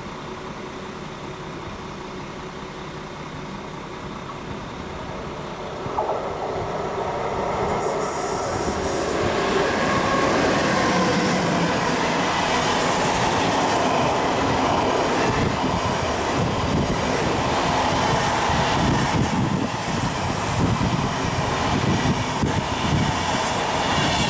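Eurocity train, a DB class 101 electric locomotive hauling Swiss SBB passenger coaches, approaching and then rolling past on the near track. It gets loud from about six seconds in, with steady wheel-on-rail noise and brief high squeals about eight and twenty seconds in.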